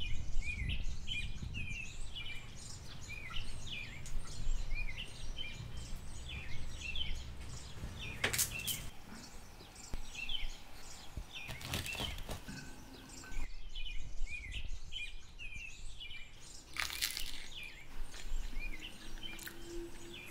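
Songbirds chirping and singing outdoors, many short quick calls repeated throughout over a low steady background rumble, with a few brief sharper noises now and then.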